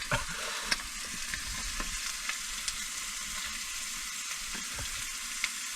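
Burger patties and bacon frying in a pan, a steady sizzle with a few small sharp pops now and then.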